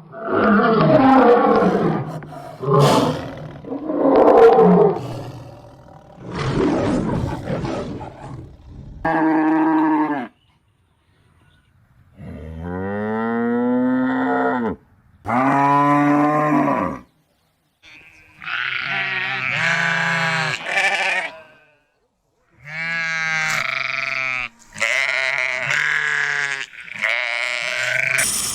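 A string of different animal calls, one after another: several rough roars over the first nine seconds, then separate pitched calls with short silences between them, the last few high and wavering.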